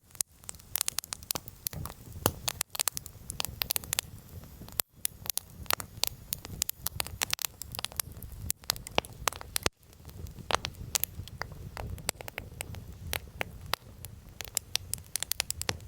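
Wood campfire crackling, with many irregular sharp pops over a low steady rumble of burning.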